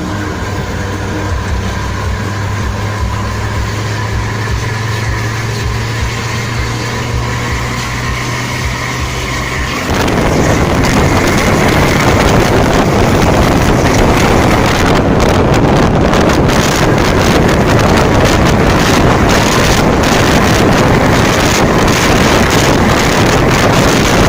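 A vehicle engine runs steadily at road speed with a low, even hum and road noise. About ten seconds in, loud wind buffeting on the phone's microphone suddenly takes over and drowns it out.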